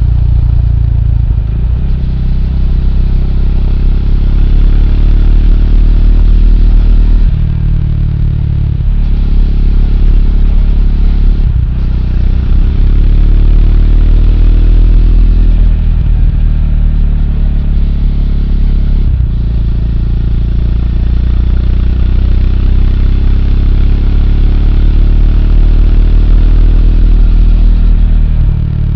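Triumph Speed 400's single-cylinder engine running under way. Its pitch climbs with speed, and the sound dips briefly several times where gears are changed.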